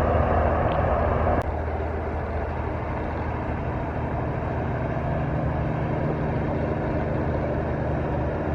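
Heavy truck engine running with road noise, a steady low hum. About a second and a half in the sound drops suddenly with a click, then runs on steadily at a lower level.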